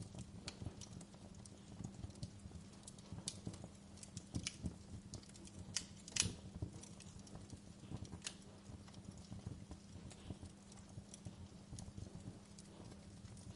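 Wood fire crackling: irregular small pops and snaps, the loudest about six seconds in, over a soft steady hiss of rain.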